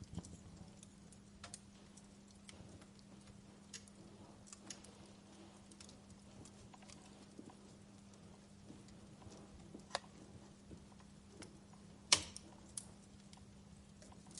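Wood fire crackling: scattered sharp snaps and pops, one much louder pop about 12 seconds in, over a faint low steady hum.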